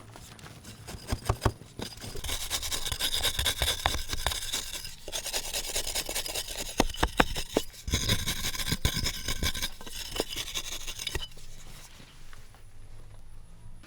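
A hand tool scraping and rasping in two stretches of a few seconds each, with sharp irregular clicks and knocks throughout.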